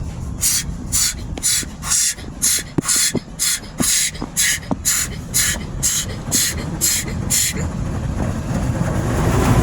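Automatic car wash heard from inside the car: rhythmic hissing bursts of spray hitting the car, about two a second, with a few sharp clicks. The bursts stop about three quarters of the way in, and a steady low rushing noise builds louder toward the end.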